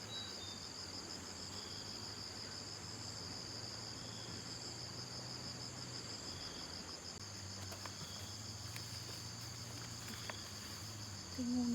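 Insects chirring in a steady, finely pulsed high trill, typical of a field chorus of crickets or cicadas. A brief, louder low sound comes near the end.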